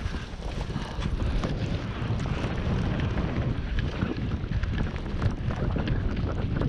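Wind buffeting the microphone of a skier moving downhill, with the skis scraping and hissing over snow in short scattered ticks.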